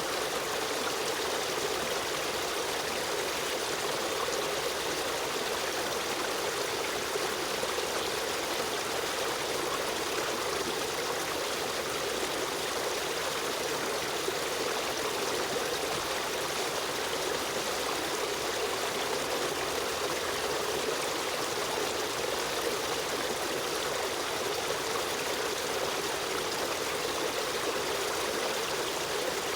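Stream water running and trickling steadily, an even rushing with no changes.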